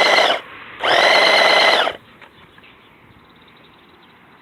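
New Bright RC car's electric motor whining at full throttle with the wheels spinning, in two short bursts: the first cuts off just after the start, the second runs for about a second. After that only a faint background remains.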